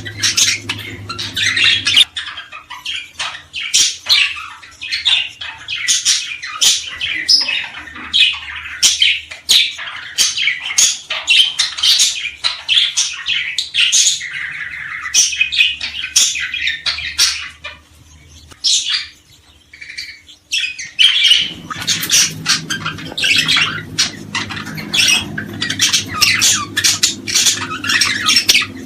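Small birds chirping in rapid, dense, overlapping calls, thinning out briefly about two-thirds of the way through before resuming.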